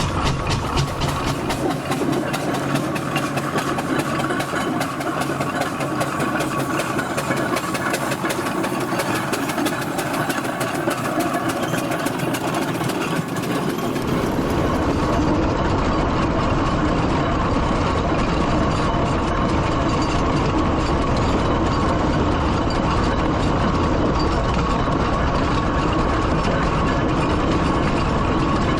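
Steam traction engine running along the road, with a fast, regular ticking beat for about the first half. About halfway through, this gives way to a steadier, deeper rumble.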